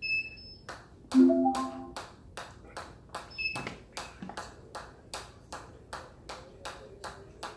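A short electronic beep, then a brief melodic chime about a second in. After that comes a steady run of clicks at about three a second: the rhythm of a fast repeated exercise being counted in reps.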